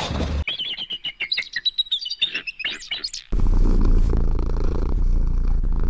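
A rapid run of high-pitched chirping calls lasting about three seconds, then a sudden change to a steady low rumbling noise.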